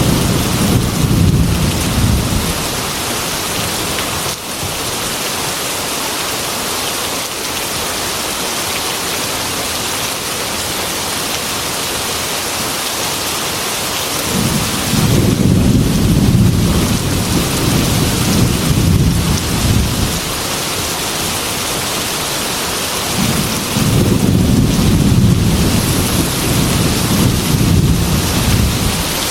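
Heavy rain falling steadily on a metal roof, with rolls of thunder rumbling three times: one fading in the first couple of seconds, another for about five seconds midway, and a third for about five seconds near the end.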